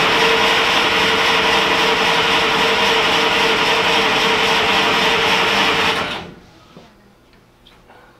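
Willys Jeep engine being cranked over by its starter motor without catching, a steady whirring drone that stops about six seconds in. The owners take the engine to be flooded.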